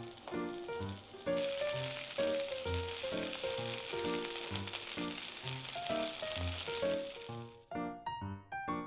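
Chicken pieces sizzling in shallow oil in a frying pan. The sizzle grows louder about a second and a half in and stops suddenly near the end. Background music with a steady beat plays throughout.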